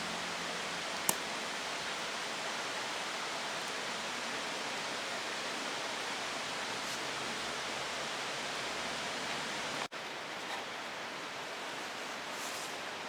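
Steady rush of flowing water, an even, unbroken hiss with a single sharp click about a second in.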